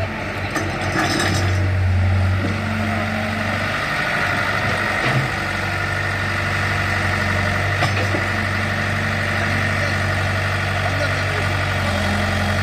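Tractor diesel engine idling steadily, with voices in the background.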